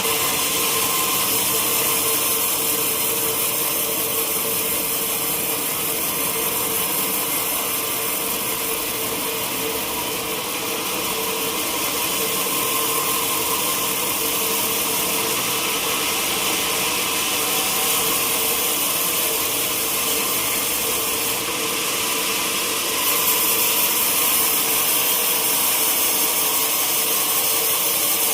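Sawmill saw running steadily while cutting teak wood, a constant machine hum with a high hiss that grows a little louder about two-thirds of the way through.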